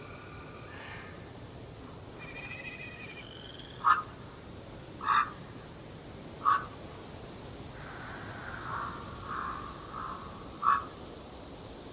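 Forest bird sounds: a loud, short call repeated four times at irregular intervals a second or more apart, with softer whistled song phrases in between, over a steady background hiss.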